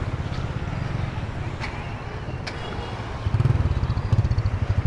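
A small engine running close by with a fast, pulsing low note that grows louder about three seconds in, with a few faint clicks.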